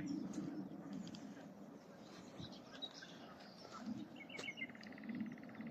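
Common nightingale singing faintly in scrub. Scattered notes give way, about four seconds in, to a fast run of evenly repeated notes.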